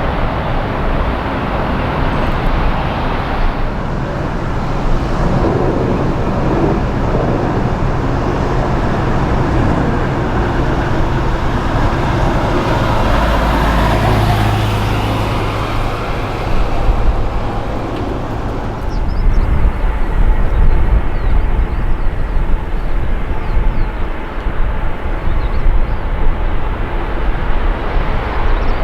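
Jet airliner engines running loud and steady, with low rumbling that grows heavier and less even in the second half.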